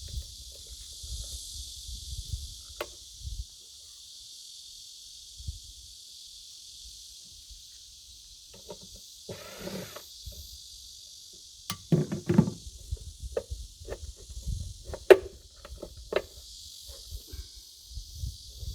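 Steady high-pitched insect chorus, with scattered knocks and short clatters of hand work on a toilet fixture, the loudest about twelve and fifteen seconds in.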